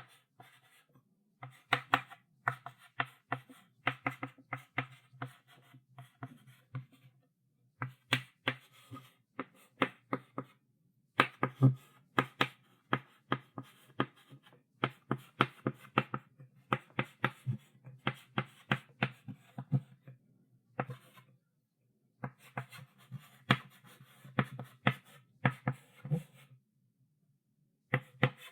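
Chalk writing on a chalkboard: quick taps and short scratching strokes in bursts, with brief pauses between bursts.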